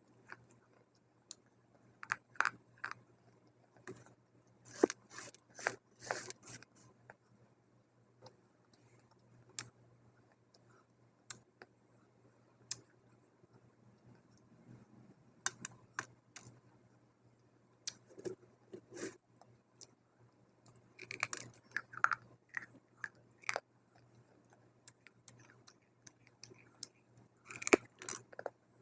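A person biting and chewing dry chunks of multani mitti (fuller's earth clay) close to the microphone: crisp crunching in short bursts of sharp cracks, separated by quieter pauses, over a faint low hum.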